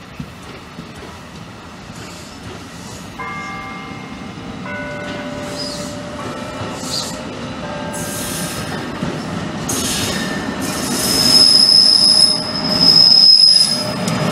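NJ Transit commuter train of bilevel coaches rolling past, its wheels squealing in several steady high tones over the rumble. It grows louder and is loudest near the end as the electric locomotive at the rear draws level.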